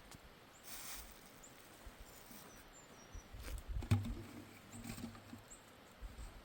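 Outdoor ambience with faint, short, high bird chirps, a brief hiss about a second in, and a knock near the middle followed by a low hum lasting about a second and a half.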